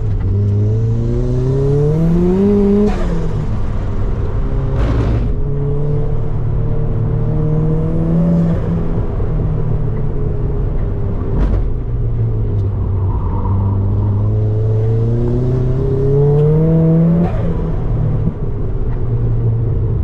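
Turbocharged Mazda MX-5's four-cylinder engine pulling hard through the gears, its note rising and then dropping at an upshift about three seconds in and again near the end. Two brief sharp cracks come in between.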